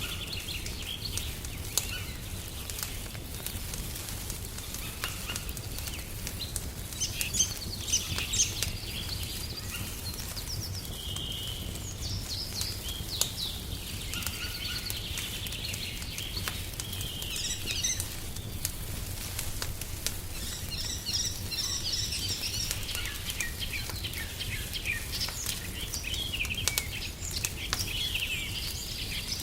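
Songbirds chirping and trilling almost continuously, over scattered pops and crackles of a wood fire and a steady low rumble.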